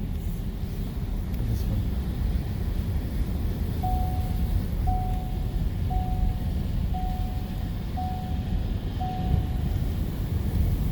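Steady low rumble of a vehicle. In the middle, six short beeps of one pitch, evenly spaced about a second apart.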